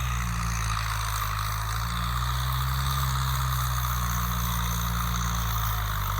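Kubota M6240SU tractor's four-cylinder diesel running steadily through its stock, unmodified exhaust, a constant low engine hum with a steady hiss over it.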